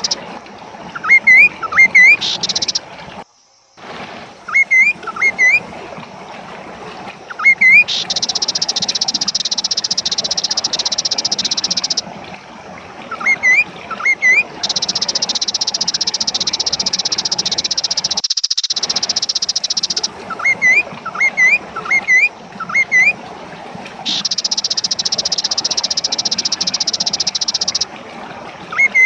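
Recorded calls of the kaso-kaso bird used as a lure track: clusters of short, upward-hooked chirps repeating over and over, alternating with long stretches of a steady, high-pitched buzzing.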